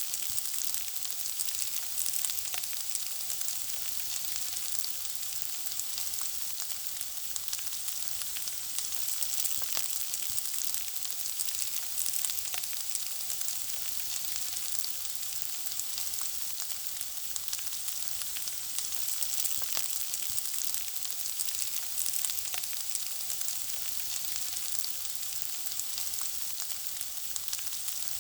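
Food frying in hot oil: a steady high sizzle with constant fine crackling and spitting.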